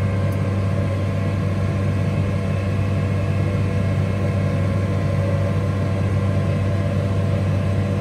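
Tractor engine and PTO-driven round baler running steadily, heard from inside the cab: an even low drone while a bale builds in the chamber.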